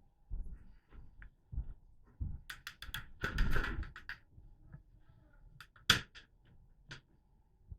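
Scattered sharp clicks and knocks, with a denser cluster of scraping clicks from about three to four seconds in and single sharp ticks about six and seven seconds in.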